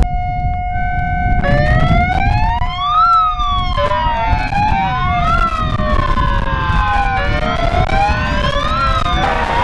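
Dozens of megaphones sounding their built-in sirens at once. A few steady tones at first, then, about a second and a half in, many wailing tones sweeping slowly up and down out of step, building into a dense clashing chorus over a rough low rumble.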